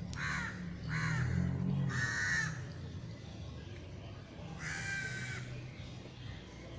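A bird giving four harsh, crow-like caws, the last two longer than the first two, over a steady low hum.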